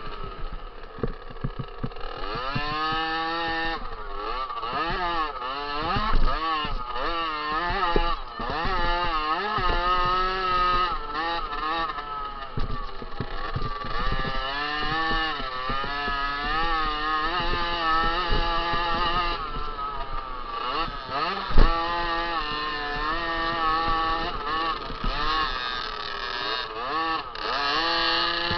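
A 50 cc two-stroke motocross bike's engine revving hard and backing off over and over, its pitch climbing and dropping every second or two as it is ridden around the track. There is a sharp knock about two-thirds of the way through.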